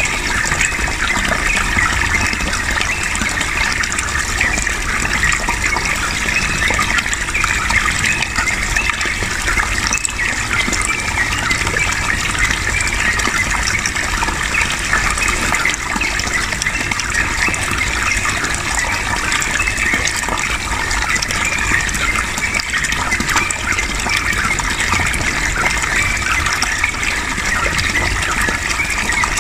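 Flowing water running steadily, an even rushing sound with no breaks.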